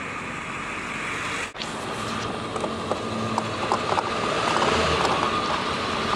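Car driving, heard from inside the cabin: steady engine and road noise, with a short sudden dropout about a second and a half in.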